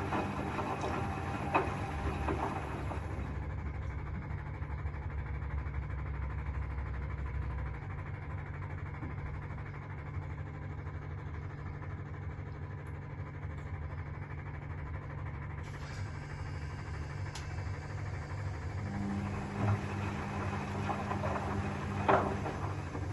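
Vintage Zanussi FLS-822CH washing machine running a 95 °C drum-clean cycle: a steady low machine hum, with a knock about a second and a half in and another near the end.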